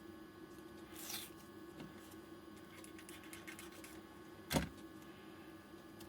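Small handling noises at a workbench over a steady low hum: a brief rustle about a second in, a few light ticks, then one sharp knock of something set down or tapped on the bench about four and a half seconds in.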